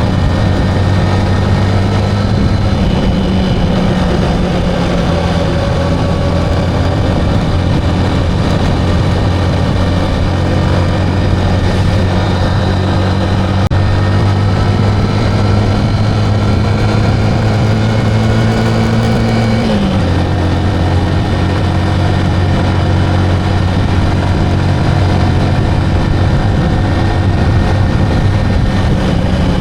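Motorcycle engine running under way with a steady note. Its pitch climbs slowly for several seconds, then drops suddenly about two-thirds of the way through and holds steady again.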